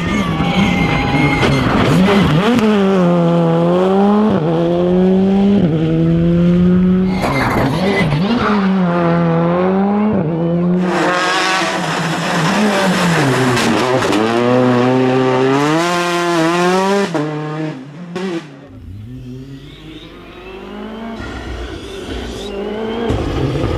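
Rally car engine at full throttle, its note climbing and dropping back again and again as it shifts up and lifts for corners, with tyre squeal. The car fades away about three-quarters of the way through, and another engine grows louder near the end.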